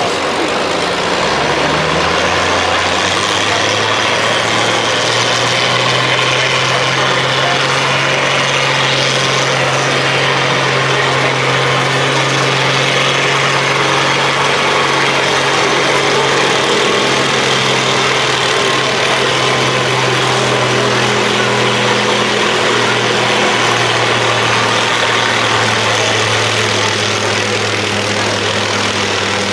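Diesel farm tractor engine running loudly and steadily, its pitch shifting a little a few times.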